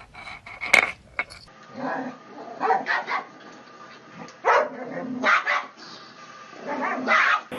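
A dog barking repeatedly, about six separate barks spread over several seconds, after a few sharp clicks at the start.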